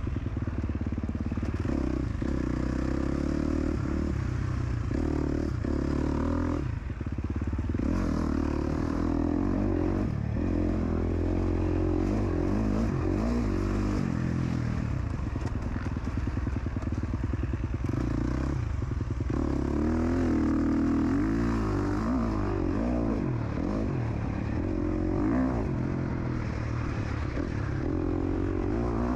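KTM 250 SX-F four-stroke single-cylinder dirt bike engine revving hard and dropping back over and over as the rider works the throttle and gears, with a few short throttle-offs, heard from on the bike.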